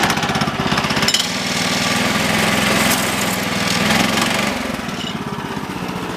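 Kohler gasoline engine on a Woodland Mills HM130 Max portable sawmill, just started and running. About a second in it speeds up and holds a higher, smoother speed, then drops back to a slower, pulsing idle near the end.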